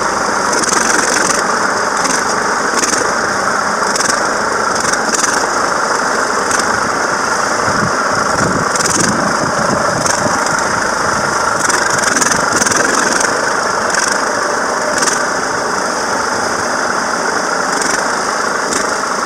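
Old two-cylinder John Deere 720 tractor engine running steadily while backing a hay wagon, with short clicks or rattles at irregular intervals.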